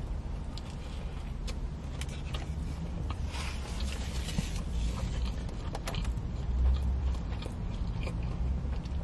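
Close-miked biting and chewing of a fried chicken fillet sandwich, with small wet mouth clicks and crunches. About three seconds in there is a brief rustle. A steady low hum runs underneath in the car cabin.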